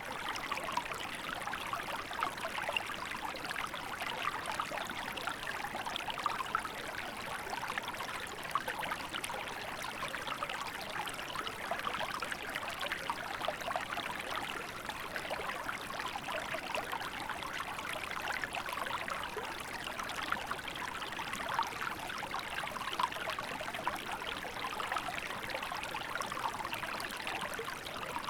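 A small river flowing steadily, its water babbling and trickling over rocks.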